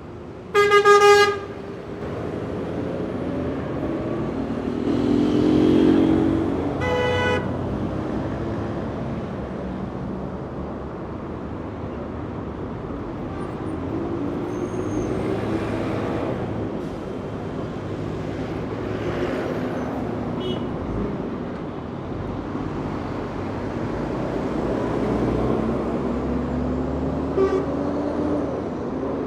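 Busy street traffic: a steady rumble of passing vehicle engines and tyres, with a loud vehicle horn blast about a second in and a second, shorter horn about seven seconds in.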